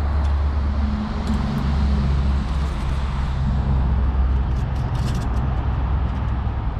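Motor vehicle engine running, a steady low rumble with a faint wavering hum above it.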